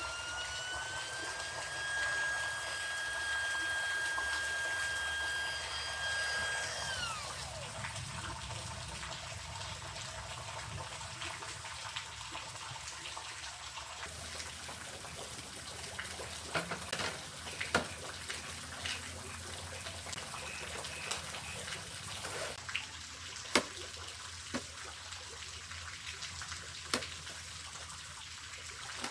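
A whistling tone rises in pitch, holds steady for several seconds, then slides down and stops about seven seconds in. After it, water trickles, with scattered sharp clicks and taps.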